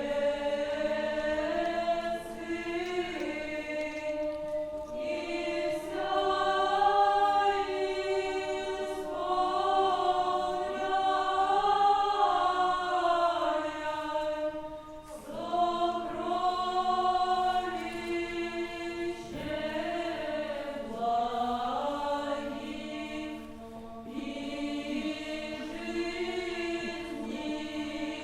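Choir singing an Old Russian chant, melodic voice lines moving over a steady held low drone note, in phrases with short breaks about halfway through and again later.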